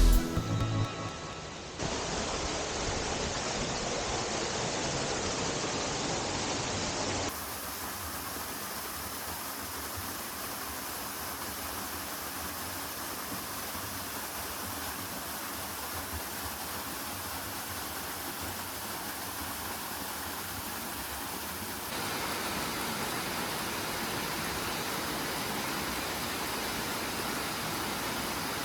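Waterfall rushing: the steady roar of falling water at Nanayo Falls, which changes abruptly in level and tone three times.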